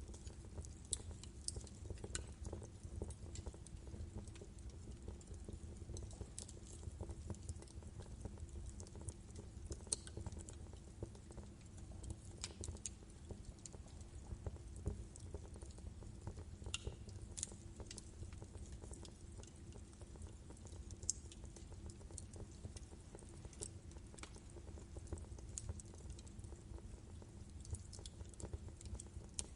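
Wood fire burning in a fireplace: logs crackling and popping at irregular moments over a steady low rumble of the flames, with a few louder snaps.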